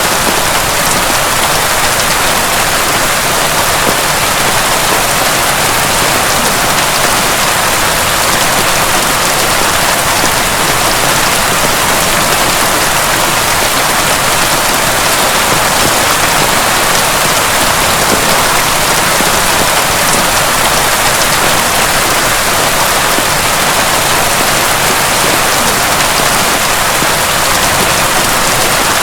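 Heavy, steady rain: a dense, even hiss of drops with no thunder.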